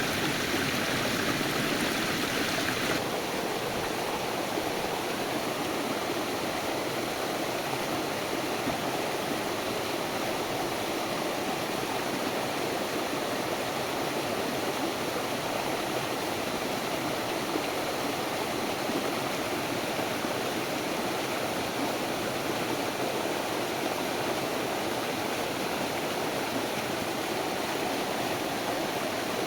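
Stream water rushing steadily, an even hiss with no breaks. The higher part of the hiss is a little louder for the first three seconds, then settles.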